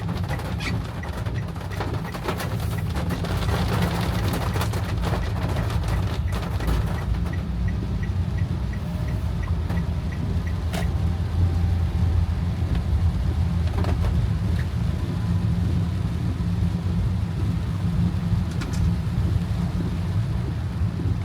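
Inside a car driving in heavy rain: the steady low rumble of the engine and the road under a hiss of rain, with rain pattering on the body and windshield, the taps densest in the first several seconds. A faint, regular light ticking runs through the first several seconds.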